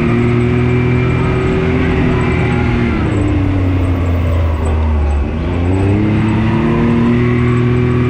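Can-Am Maverick X3 RC side-by-side's turbocharged three-cylinder engine running on the move. The engine's pitch falls about three seconds in, bottoms out near five seconds and climbs again by about six seconds as the revs drop and pick back up.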